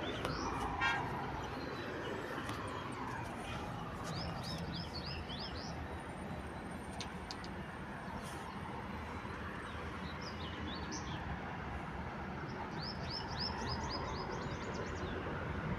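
A bird chirping in three quick runs of short high notes, about four seconds in, about ten seconds in and near the end, over a steady low background rumble.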